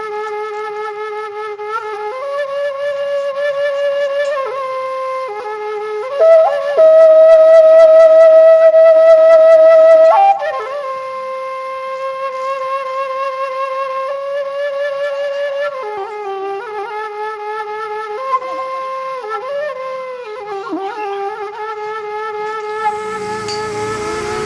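Background music: a solo flute playing a slow melody of long, held notes with vibrato, loudest on one sustained high note in the middle.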